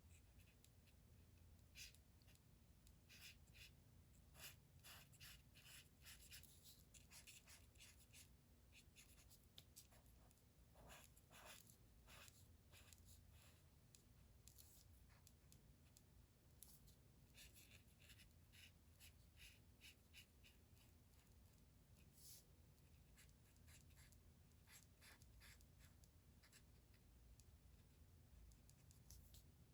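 Faint, quick scratching strokes of a colouring tool on paper as a drawing is coloured in.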